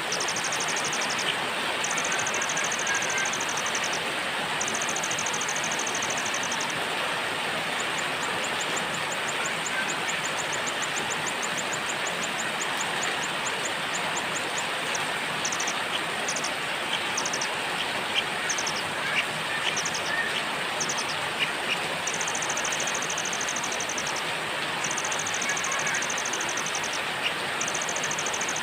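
Steady rain, with a small songbird giving high, thin trills over it in runs of a few seconds each and scattered single notes in between.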